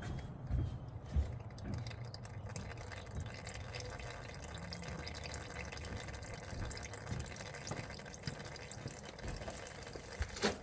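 Used engine oil from a Polaris Sportsman 450 ATV draining into a drain pan, a steady stream with dripping. It is running faster with the dipstick pulled to let air into the engine. There are a couple of soft knocks about a second in.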